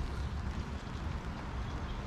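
Steady rain falling on a city street: an even hiss with faint scattered drop ticks over a constant low rumble.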